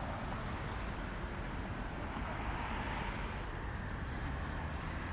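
Steady city street traffic noise, with a vehicle passing that swells up and fades about halfway through.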